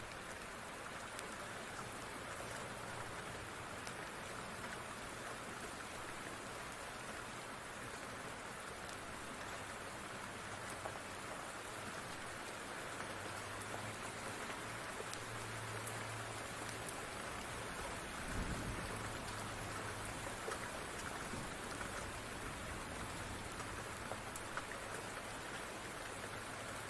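Steady rain falling, with scattered faint ticks through it and one brief low thump about two-thirds of the way through.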